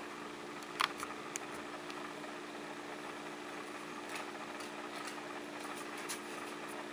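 Carrier Weathermaker 9200 gas furnace in its startup sequence: the draft inducer fan motor runs with a steady hum before the burners light. There are a few light clicks, the loudest about a second in.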